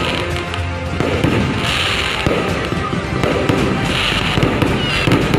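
Fireworks crackling and popping densely, many small bursts overlapping without a break, with music mixed in.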